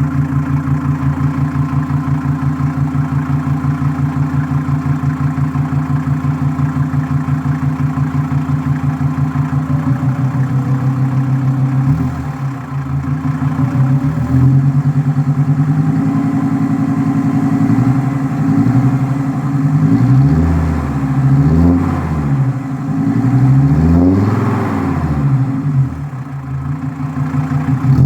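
Mercedes-Benz W124 250D's OM602 five-cylinder diesel running with the muffler deleted. It idles steadily for about ten seconds, then is revved up and down in repeated blips, several quick rises and falls in the second half.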